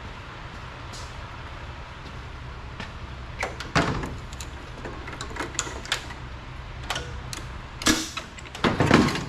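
Scattered knocks and clunks of an engine being handled and set into a riding mower's frame, the loudest about four seconds in and again near the end, over a steady low hum.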